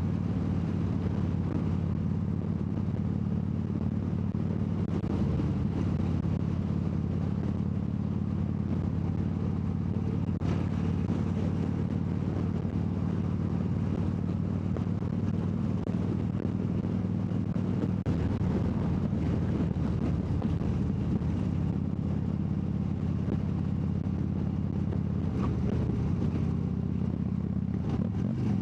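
2014 Harley-Davidson Dyna Wide Glide's 103-cubic-inch (1690 cc) V-twin running at a steady cruising pace, heard from the rider's seat.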